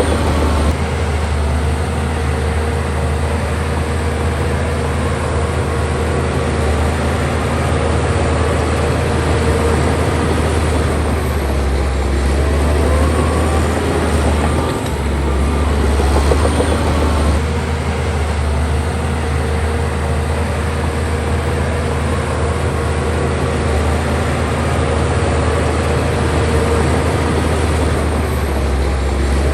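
Heavy diesel bulldozer engine running steadily under load as it works, a deep continuous drone with a few brief higher squeals now and then.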